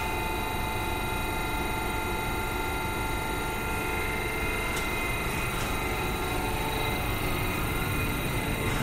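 Electric multiple-unit passenger train moving close alongside the platform and gathering speed: a low rumble with several steady high whining tones from its electric drive, growing slightly louder towards the end.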